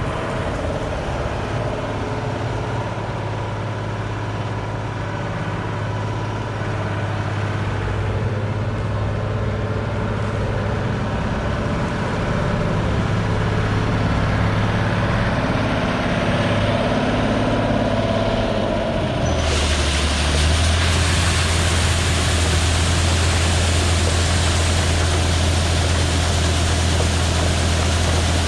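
Combine harvester running steadily with a low engine hum. About two-thirds of the way through, a louder even rushing noise suddenly joins it and the engine note shifts lower and stronger.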